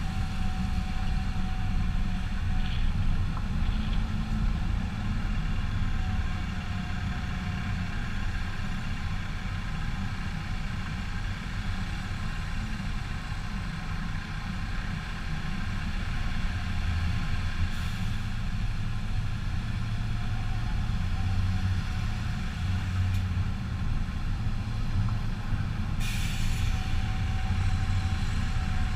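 Heavy truck diesel engine running steadily, with a short hiss near the end.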